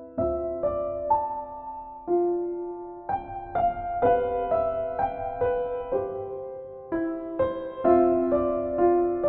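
Soft solo piano music: slow, gentle notes struck one after another and left to ring and fade.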